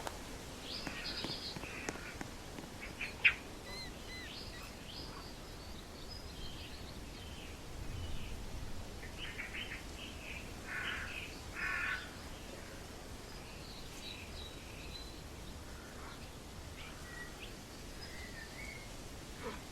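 Birds calling outdoors: scattered chirps, with a run of harsher, caw-like calls in the middle. A single sharp click about three seconds in.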